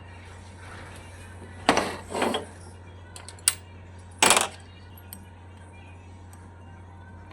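A few sharp metal clinks and knocks of tools and parts being handled, the loudest about two and four seconds in, over a steady low hum.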